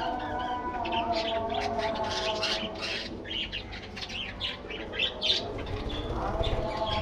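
A flock of budgerigars chirping and chattering, with many short, quick calls overlapping throughout.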